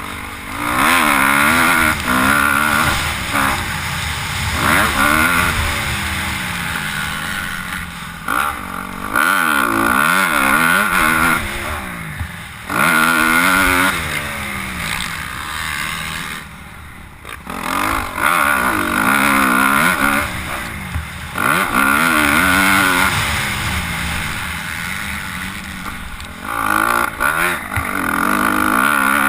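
Four-stroke motocross bikes revving hard, engine pitch climbing and dropping again and again as they accelerate and shift, with loud bursts of throttle every few seconds.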